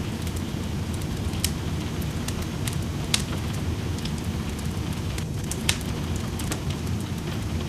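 Wood fire crackling in a fireplace, with scattered sharp pops over a steady rushing sound of rain. The loudest pops come at about one and a half, three and five and a half seconds in.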